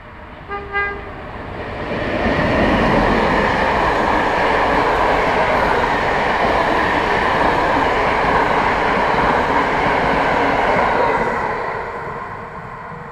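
A short horn toot about half a second in, then a passenger train hauled by an EU07 electric locomotive passing close by: a steady loud rumble of wheels on the rails for about nine seconds, fading away near the end.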